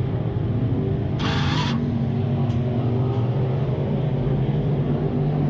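Race engine idling steadily at the dirt track, with a short hiss about a second in.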